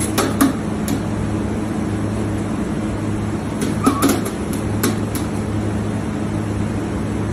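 Steady low mechanical hum, with a few short clicks and knocks over it.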